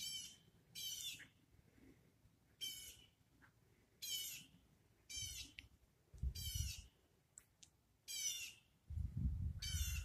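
A bird calling repeatedly: about eight short, harsh calls spaced roughly a second apart, with some low rumbles of wind or handling noise near the middle and end.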